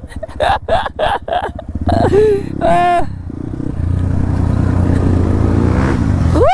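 Dirt bike engine running while riding, its pitch creeping up slowly through the second half. A voice calls out a few times in the first three seconds.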